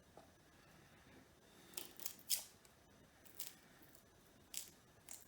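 Garlic cloves being peeled and cut by hand: about five short, crisp crackles and snips, the loudest a little past two seconds in.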